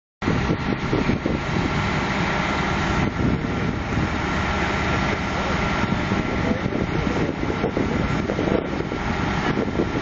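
Heavy vehicle engines running steadily at the scene of an overturned dump truck being lifted back upright.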